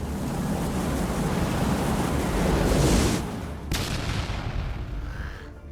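Explosion sound effect: a rushing rumble that builds to its loudest about three seconds in, a sharp crack just after, then dying away.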